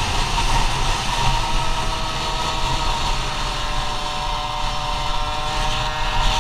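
Go-Ped scooter's CR70 two-stroke engine running at high revs while riding, its pitch easing down slightly through the middle, then climbing again near the end.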